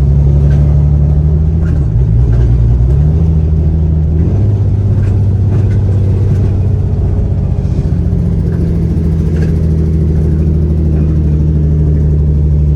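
Nissan 350Z's 3.5-litre VQ V6 running through a full exhaust, a loud steady low drone. Its pitch dips and comes back up about two to four seconds in, then holds steady.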